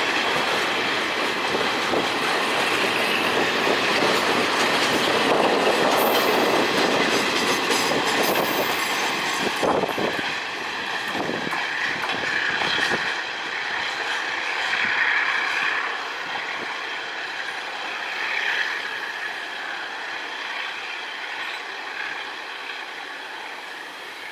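Freight wagons rolling past on the rails, wheels clattering over the rail joints with some wheel squeal. The noise eases off over the second half as the train moves away.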